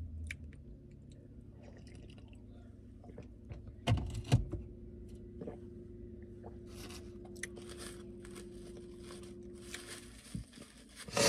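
Close-up eating sounds: chewing and crunching on chicken wings, with a couple of sharp clicks about four seconds in and a louder burst of noise at the very end.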